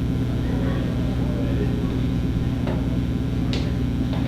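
A steady low mechanical hum, with a few faint clicks in the last two seconds.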